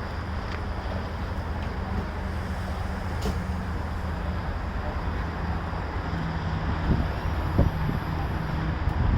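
A vehicle engine idling steadily, with street traffic, and a few short low thumps near the end.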